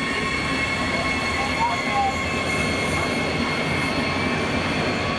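Electric train running at the station: a steady rush of wheel and running noise, with several steady high whining tones over it.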